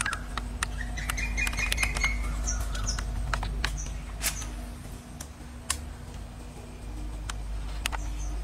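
Small birds chirping, with a run of chirps in the first two seconds and short high calls a few seconds in and again near the end. Sharp ticks are scattered throughout over a steady low rumble.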